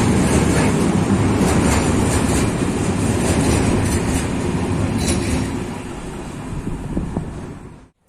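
Freight train of coal wagons rolling past: a steady rumble with wheel clicks over rail joints and a thin high wheel squeal. It eases somewhat over the last couple of seconds, then cuts off abruptly near the end.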